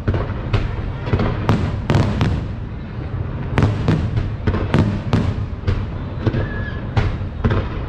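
Aerial fireworks display: about a dozen sharp shell bursts and bangs in quick, uneven succession over a continuous low rumble.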